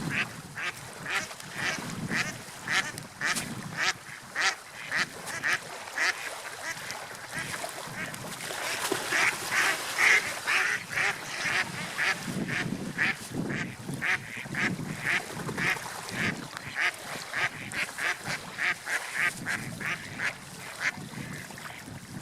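Gulls calling: many short, rapid cries one after another, with no pause.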